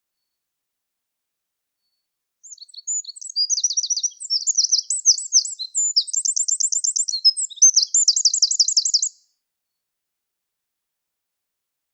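A songbird singing one long, varied song of high chirps and rapid trills. It starts about two and a half seconds in and stops about nine seconds in.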